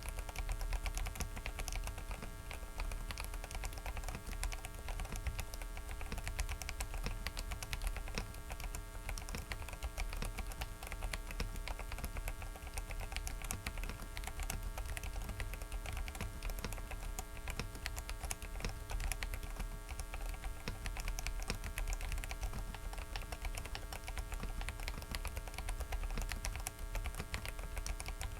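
Continuous typing on a Dareu mechanical keyboard: a dense, irregular stream of key clicks. Under it runs a steady electrical buzz and hum from a faulty microphone.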